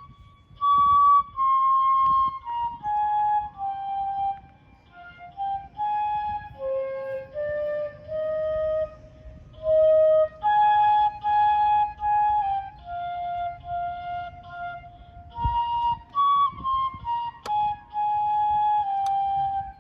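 Solo flute-like wind instrument playing a slow melody of held notes, one note at a time, over a faint low background rumble.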